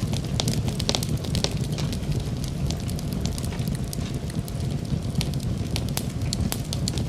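Fire in a fireplace crackling, with frequent irregular snaps and pops over a steady low rumble.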